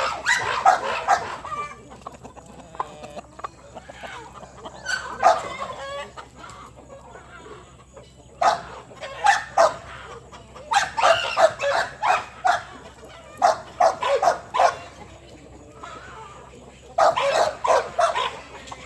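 Chickens clucking and squawking in repeated bursts of short calls, with quieter stretches between.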